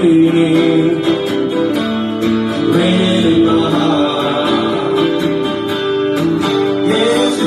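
Live music: a guitar-led instrumental passage with no singing.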